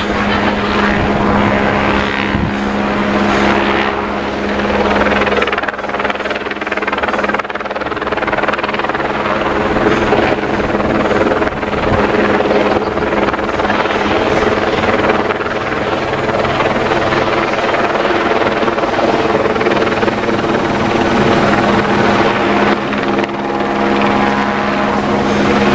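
Helicopter hovering overhead: a loud, steady rotor and engine drone with a constant pitch.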